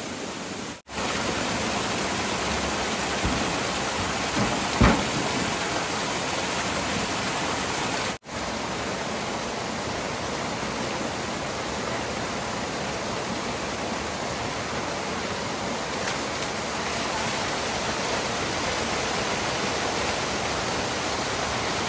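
Steady rushing of flowing water, an even noise that drops out for an instant twice.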